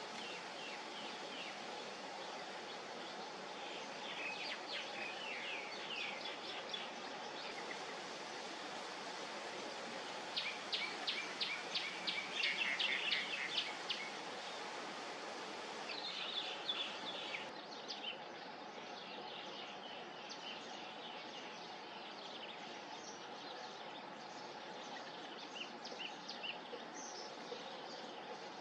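Birds chirping in scattered bursts over a steady background hiss, with a quick run of rapid repeated high chirps about ten seconds in.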